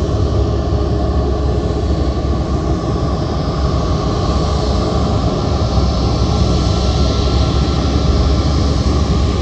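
Jet airliner engines running with a steady low rumble and a steady whine, the hiss growing slightly stronger in the second half.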